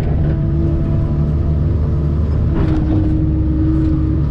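Kobelco excavator's diesel engine running steadily under load while its hydraulics lift and shake a heavy tree stump. A steady higher tone grows stronger about two-thirds of the way in, with a few short knocks.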